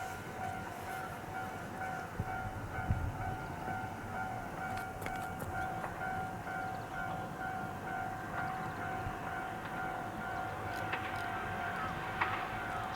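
Railway level crossing warning bell ringing in an even, rapid beat of about two to three strokes a second over a low rumble.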